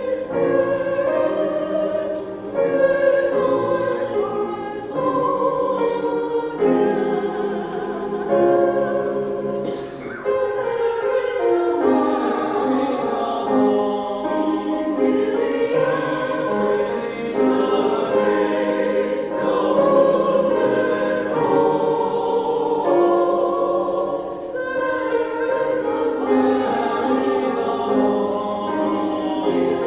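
Church choir singing an anthem, many voices together in sustained, changing chords.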